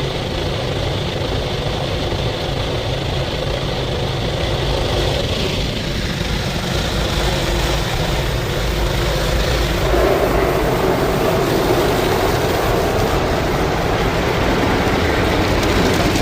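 WashTec SoftCare SE rollover car wash working its wheel scrubbers against the car: a steady rumble and swish of spinning brushes and spraying water, heard from inside the car, getting louder about ten seconds in.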